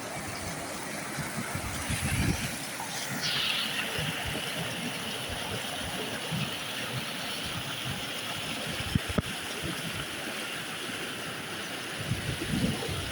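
Water flowing in a stream, a steady rushing hiss, with a higher steady hiss joining about three seconds in.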